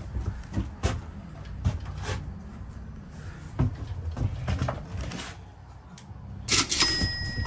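Scattered thumps and knocks of footsteps and handling on a cargo trailer's wooden floor, with a short high squeak near the end.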